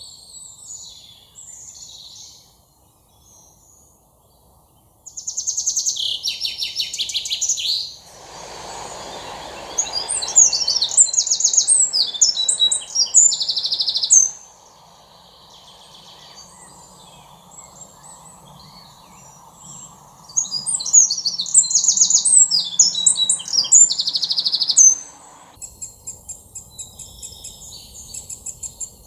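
Songbirds singing: repeated bursts of fast, high-pitched trilled phrases, some loud and close, with quieter stretches between.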